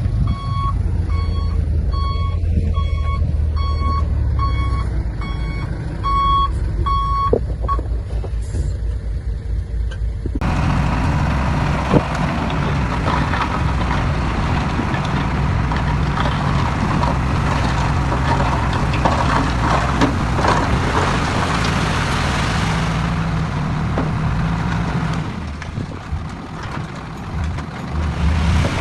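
A heavy vehicle's reversing alarm beeps about twice a second over a diesel engine running low, and stops after about seven seconds. Around ten seconds in, the sound switches abruptly to a loud heavy diesel machine working hard, with scraping noise and scattered knocks of stones being pushed.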